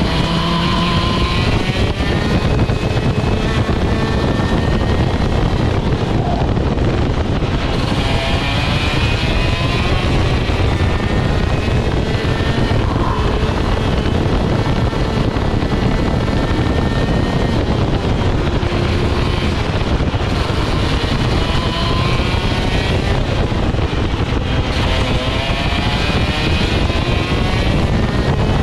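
Rok GP 125 cc two-stroke kart engine at racing speed, its pitch climbing again and again as it accelerates and then easing off, with heavy wind noise on the microphone.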